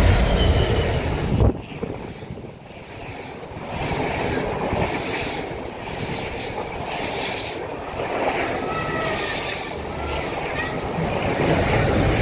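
Train running through on the line: a heavy low rumble that drops away suddenly about a second and a half in, then continuing rail and wheel noise with faint wheel squeals near the end.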